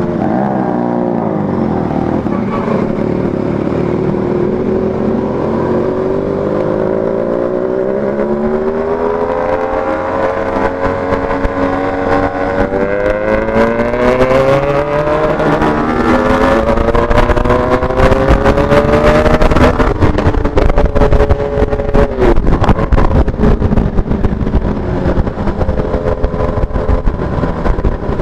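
Motorcycle engine and exhaust on the move, the pitch climbing as it revs up through the gears and falling back about two-thirds of the way in, with wind buffeting the microphone growing louder in the second half.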